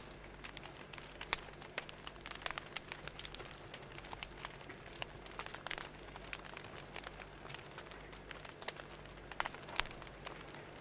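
Fire crackling: irregular sharp pops and snaps, several a second, over a faint steady hum.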